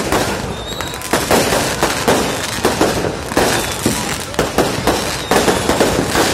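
Fireworks going off in a dense barrage: many sharp bangs, several a second, over continuous crackling.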